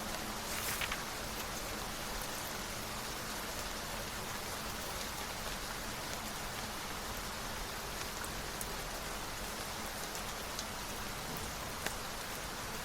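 Steady rain falling, a continuous hiss with scattered drop ticks. A brief rustle about half a second in, the kind of short sound that a paper page turning makes.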